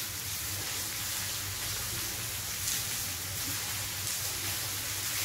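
Chopped vegetables (carrot, bell peppers, onion) sizzling in oil in a wok on high flame as they are stir-fried with a silicone spatula; a steady hiss.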